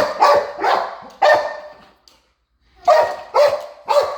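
A dog barking repeatedly in quick runs: about four sharp barks, a pause, then another burst of barks near the end.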